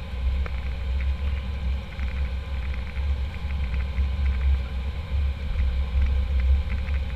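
Low, steady rumble of airliner cabin noise, with faint higher tones above it.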